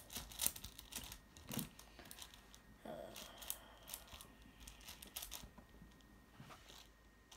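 Plastic clicks and rattles of a 6x6 Rubik's cube being turned by hand, in quick irregular bursts of layer turns with short pauses between.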